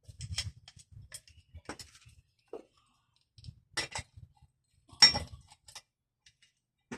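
Scattered clicks and metallic clinks of metal hand tools and small parts being handled, with two louder knocks about four and five seconds in.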